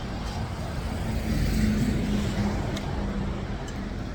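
Steady low rumble of vehicle noise with a faint hum, growing a little louder about a second in and then easing back.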